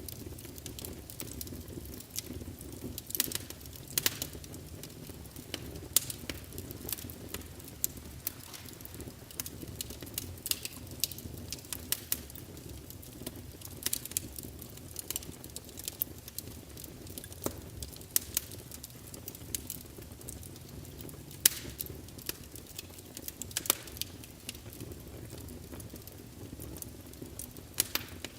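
Log fire burning in a fireplace, crackling with irregular sharp pops and snaps over the steady low rush of the flames; the loudest pop comes about two-thirds of the way through.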